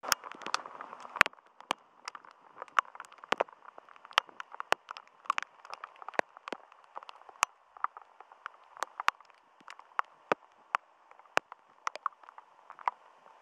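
Rain falling, with irregular sharp taps of drops striking close to the microphone, a few a second, over a steady hiss of rain.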